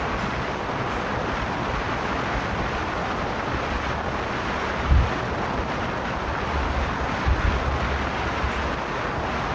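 Steady road and wind noise from a car being driven, with low wind buffeting on the microphone about five seconds in and again around seven to eight seconds.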